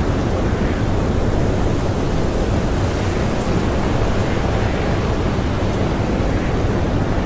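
Blizzard wind blowing hard and steadily, a deep, even rushing noise without pauses or breaks.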